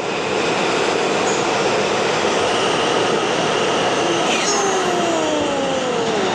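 New York City Subway L train pulling out of an underground station, with steady loud wheel and running noise on the track. About four seconds in, whining tones enter that fall in pitch.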